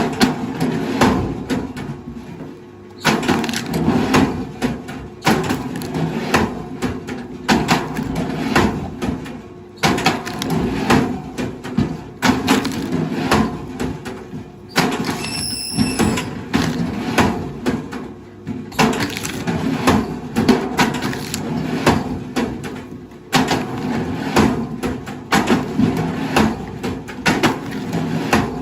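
Wood cracking and splintering again and again, with a steady low machine hum underneath, as heavy forestry machinery breaks up timber or stumps.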